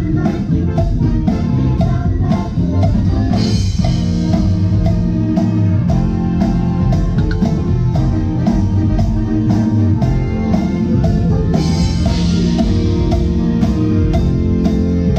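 Band music with drum kit and guitar and a steady, even beat, with a little singing.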